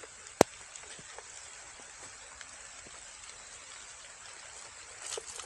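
Light rain falling steadily, with faint scattered drop ticks and one sharp click about half a second in.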